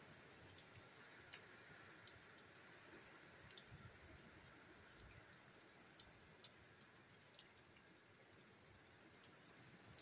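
Faint, steady hiss of rain, with about ten scattered, sharp drips of water falling close by.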